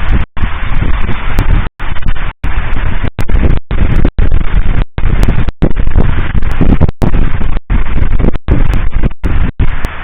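Fireworks salute bursting in quick succession, very loud and distorted on an overloaded microphone. The recording cuts out for an instant about a dozen times.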